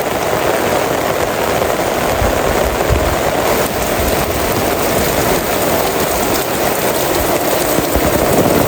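Heavy rain falling steadily, a dense, even hiss of drops striking surfaces.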